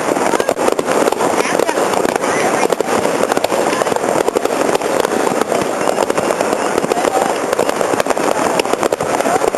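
Fireworks going off in a dense, continuous barrage of crackles and pops, with no pause.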